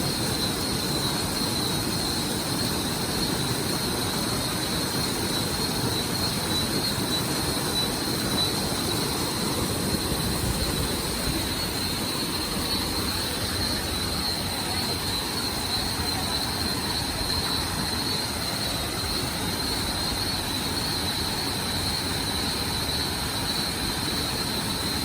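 Waterfall rushing with a steady, unbroken noise, with a thin, steady high whine above it.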